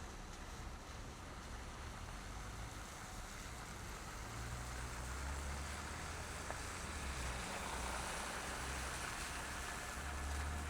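Steady tyre and road noise from a car driving on snowy city streets, with a low rumble that grows louder about four seconds in.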